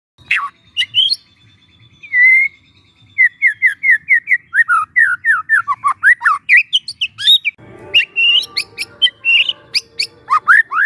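Young white-rumped shama singing: a few sharp whistled notes, then a quick run of slurred notes sliding lower in pitch, then high sharp chips over a faint hiss near the end.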